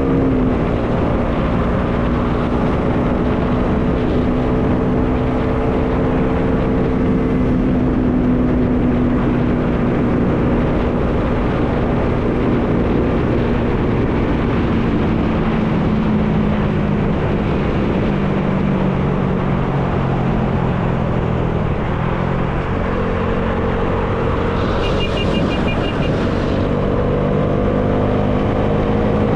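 Bajaj Dominar 400 single-cylinder motorcycle engine running under way, with steady wind noise over it. The engine note slowly drops as the bike eases off, then climbs again as it accelerates. A brief high-pitched beeping comes near the end.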